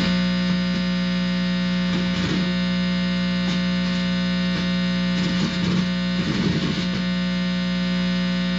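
Guitar amplifier giving a loud, steady electrical buzz with many overtones, switching on abruptly, as the tip of a guitar cord is held against the side of a person's head: mains hum picked up through the body, which the user takes for a directed-energy attack.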